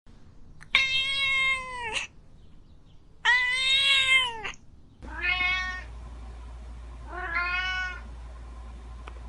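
Cats meowing: two long, loud meows, then, about five seconds in, a different recording with a steady low hum behind it and two shorter meows.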